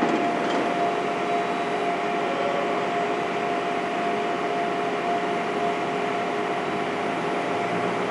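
Heavy construction machinery running steadily: an engine hum with a steady whine held over it.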